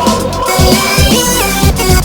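Electronic music: a synthesizer melody stepping up and down in pitch over a heavy bass line and regular drum hits.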